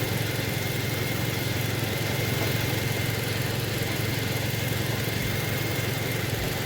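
Toyota truck engine idling steadily, heard with the hood open, with a thin steady whine above it that stops shortly before a short sharp click near the end.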